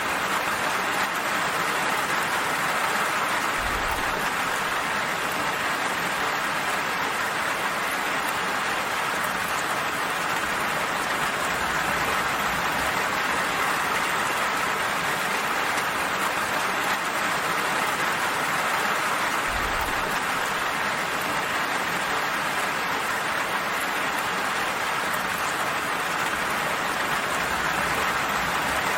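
Steady rainfall, an even patter with no breaks.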